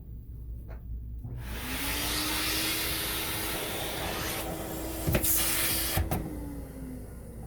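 HP central vacuum running through a wall-mounted stretch-hose inlet. It switches on about a second and a half in with a rush of suction and a steady whine. There are two sharp knocks about a second apart, then the motor winds down near the end.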